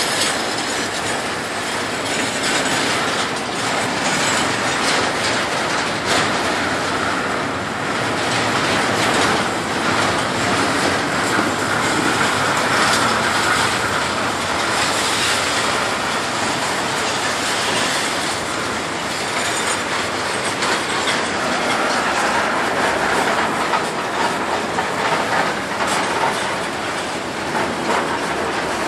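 Intermodal freight cars carrying double-stacked containers and highway trailers rolling steadily past, with a continuous rumble and the wheels clattering over the rail joints.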